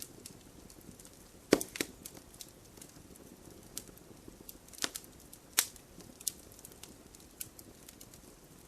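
Wood fire burning in a fireplace, crackling: scattered sharp pops of burning wood over a faint steady hiss. The loudest pops come about one and a half seconds in and again near five seconds.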